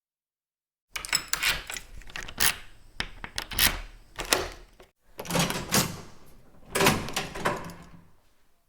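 A door being worked: a run of sharp clattering knocks and rattles in two bursts, with a short break about halfway, fading out near the end.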